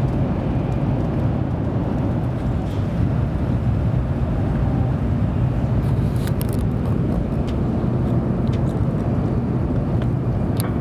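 Steady low rumble and hiss of a 700 series Shinkansen running along the line, heard from inside the passenger cabin. A few light clicks come about six seconds in.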